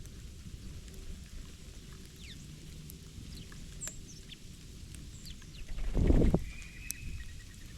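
Small birds chirping, with short high call notes scattered throughout. About six seconds in, a brief low muffled rumble is the loudest sound.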